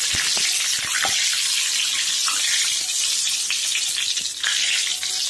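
Masala-stuffed brinjals sizzling in hot oil in an iron kadhai over a low flame: a steady hiss, with a few soft clicks in the first second or so as one brinjal is turned over.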